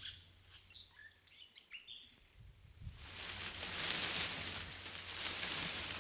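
Daytime forest ambience: a few short bird chirps in the first half, then a broad hiss swells up about halfway through and stays.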